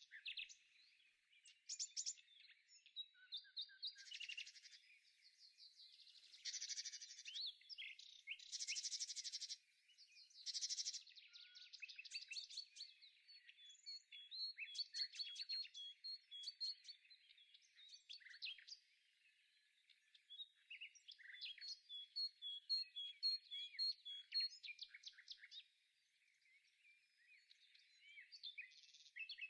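Songbirds chirping and singing: quick buzzy trills and runs of short high notes repeated in even series, from several birds at once.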